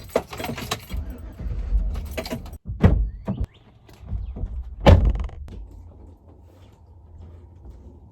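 Low rumble of a car, with a few sharp loud thumps about three and five seconds in, the second the loudest, then a faint steady low hum.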